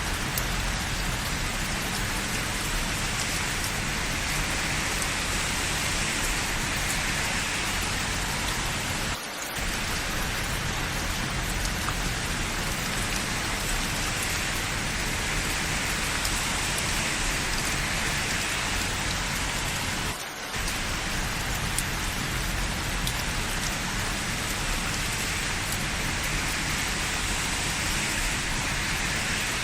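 Steady rain falling: an even hiss with scattered small drop ticks, dipping briefly twice, about nine and twenty seconds in.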